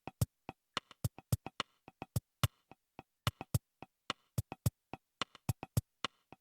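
Electronic drum-machine beat: sparse, uneven percussion hits, some with a low kick-like thump and some click-like, with complete silence between the hits.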